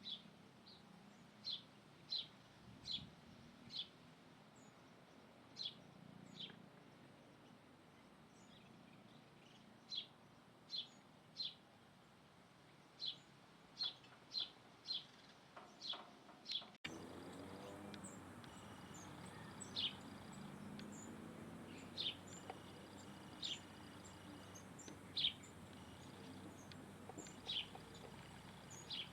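A bird calling with short, sharp, high chirps, one or two a second in uneven runs, over faint background noise that suddenly grows louder about two-thirds of the way through.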